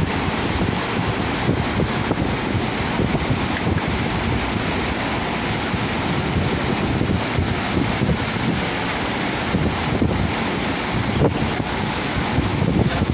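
Steady rush of water from a shipboard FlowRider surf simulator, with wind buffeting the microphone.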